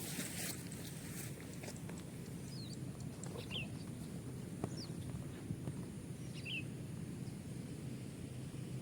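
Steady outdoor background noise with about four short, high bird chirps spread through it.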